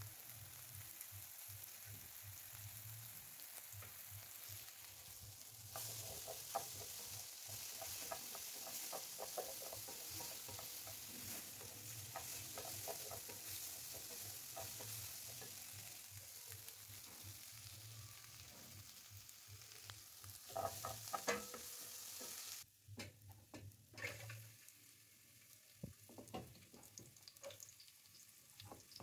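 Food frying in oil in a pan, sizzling steadily while a wooden spoon stirs and scrapes through it. About three quarters of the way through, the sound cuts off sharply to a quieter sizzle of onions frying in oil, with occasional knocks of the spoon.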